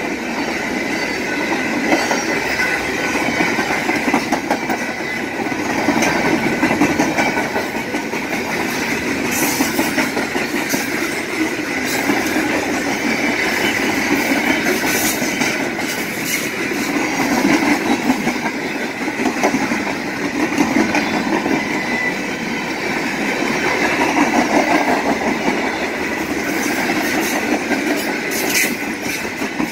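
Canadian Pacific freight train's cars rolling steadily past, wheels clacking over the rails, with a continuous rumble that swells and eases as the cars go by.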